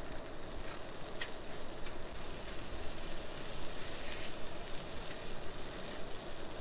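Rain and wind on a tent in stormy weather: a steady hiss with scattered ticks of drops hitting the fabric.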